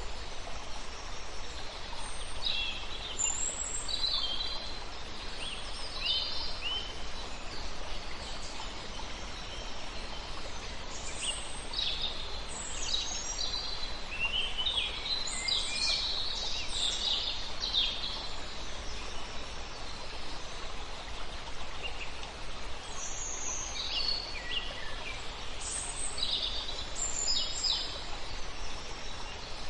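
Several songbirds chirping and trilling in bursts over a steady rush of river water.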